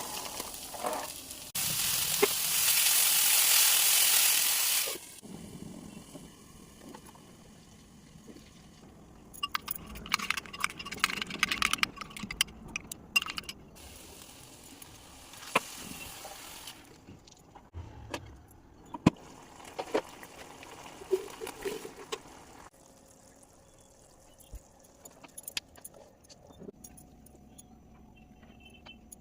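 Kitchen cooking sounds: a loud hiss lasting a few seconds near the start, then scattered metallic clinks and scrapes of utensils against cookware, with quiet stretches between.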